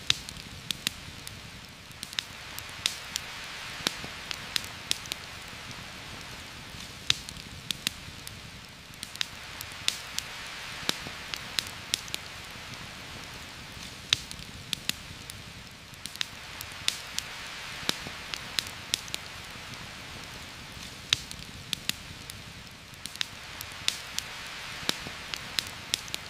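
Heavy rain falling steadily through forest leaves, swelling and easing every few seconds, with frequent sharp irregular ticks and pops over it.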